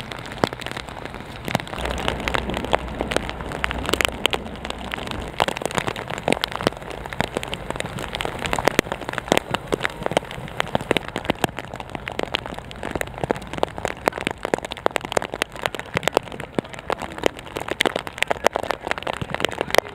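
Heavy rain falling, a steady hiss thick with the sharp ticks of individual drops striking close by.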